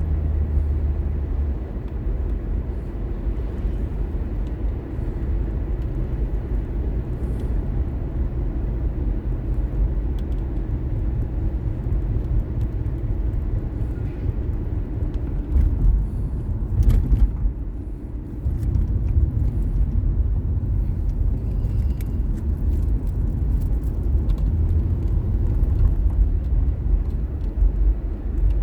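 A car driving, with a steady low rumble of road and engine noise and a short knock about seventeen seconds in.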